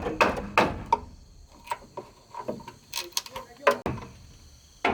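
Sharp, irregular knocks and chops of a hand tool striking wood: several strikes close together at first, then sparser, with a loud strike near the end.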